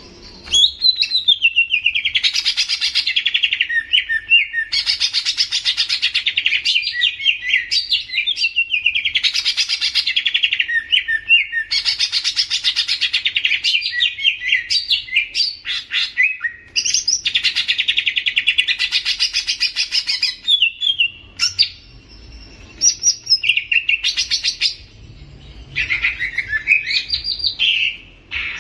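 Greater green leafbird (cucak ijo) singing loudly in long phrases of rapid, varied warbling, each about three seconds with short pauses between. The phrases grow shorter and more broken in the last third.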